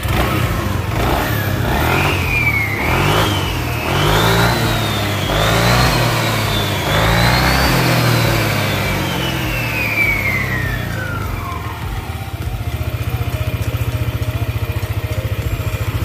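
Yamaha NMAX 155 scooter's single-cylinder engine and CVT revved in a series of throttle blips, a whine rising and falling with each one. The revs then fall away in a long downward glide, and the engine settles into a steady idle pulse.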